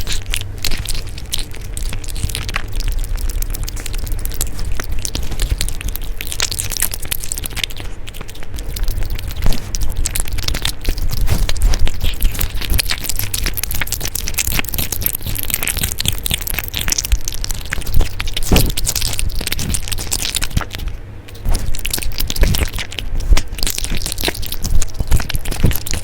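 An animal eating: a steady run of small crunching and crackling bites as food is chewed close to the microphone.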